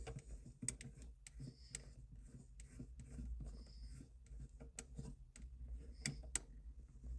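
Faint, irregular clicks and ticks of a Perrin aftermarket e-brake button being screwed onto the threaded end of the handbrake lever by hand, over a steady low hum.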